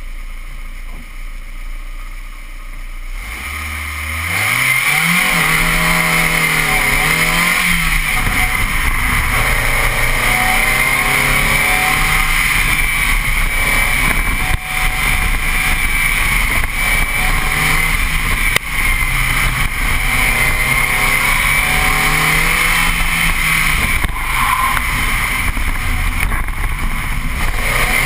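Mazda Miata's four-cylinder engine idling, then launching hard about three seconds in and revving up and down through an autocross cone course. A steady rush of wind and road noise runs under it.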